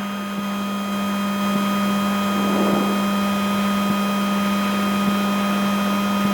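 Steady electric hum with a faint hiss from the Skoda Enyaq RS Race electric race car standing still, heard from inside its cabin. A brief soft swell rises about two and a half seconds in.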